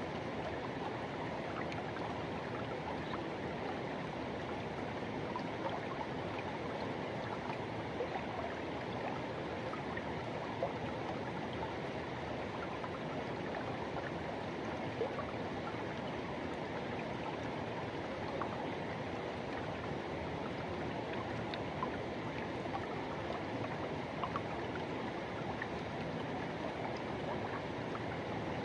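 Forest river rushing: a steady, even sound of flowing water with a few brief ticks here and there.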